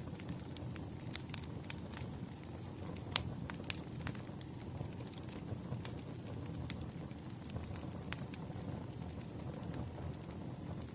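Burning firewood crackling: a steady low rush of flames with irregular sharp pops and snaps. The loudest pop comes about three seconds in.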